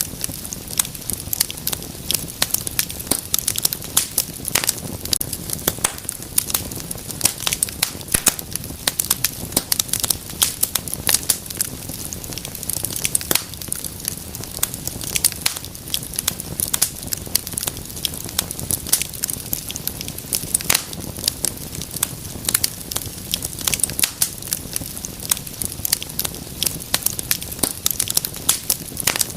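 Wood fire in a fireplace crackling: dense, irregular sharp pops and snaps over a low steady hiss of burning.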